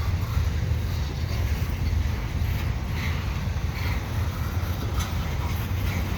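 Slow CN double-stack container freight train rolling past, a steady low rumble of the wheels on the rails.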